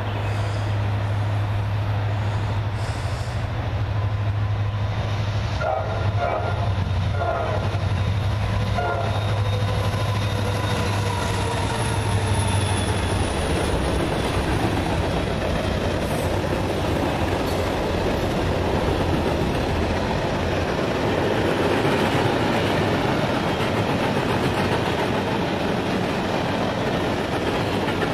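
CSX freight train led by two diesel locomotives approaching and passing. The horn sounds three short blasts about six to nine seconds in, then a steady rumble and wheel clatter as the flatcars roll by.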